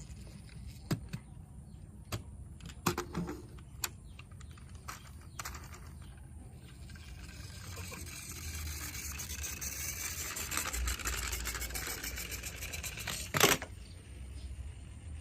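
Plastic toy vehicles being handled: a few separate clicks and knocks, then several seconds of fine rapid rattling clicks that grow louder, ending in one sharp knock.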